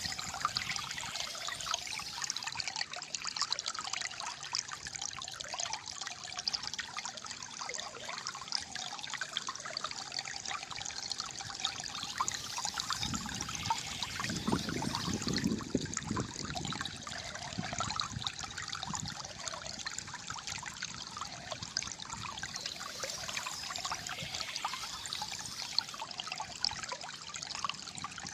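Gently flowing water trickling and gurgling steadily, with a deeper, fuller gurgle about halfway through.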